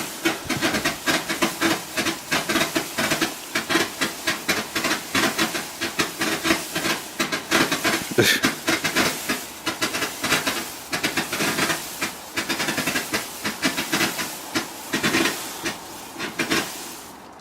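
Firework barrage cake firing a rapid, unbroken string of shots, several a second, with hissing and crackle between them; it stops suddenly near the end as the cake finishes.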